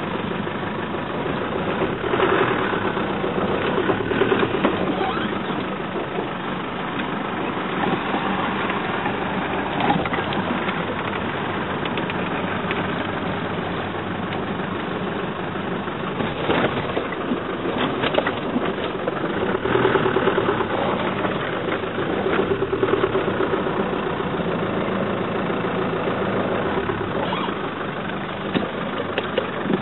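A vehicle engine running steadily, swelling louder twice: a few seconds in and again about two-thirds of the way through, with a few short knocks.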